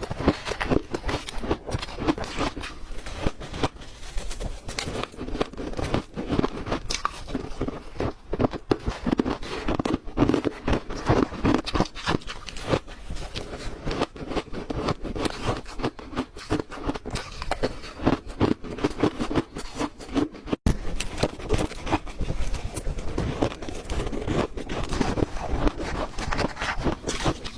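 Close-up crunching and chewing of hard ice, a dense run of sharp crackles and crunches, with a brief drop-out about two-thirds of the way through.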